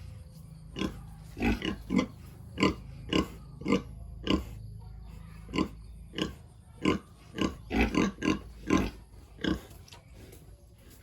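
Pigs grunting: a string of short, separate grunts, irregular at about one or two a second, that stop near the end.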